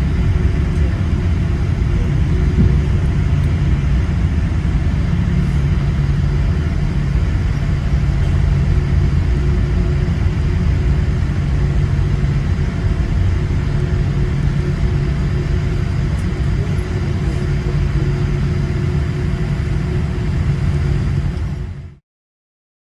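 Steady cabin rumble inside a Boeing 787-8 airliner on the ground after landing: engine noise and rolling noise with a steady low hum. It cuts off suddenly near the end.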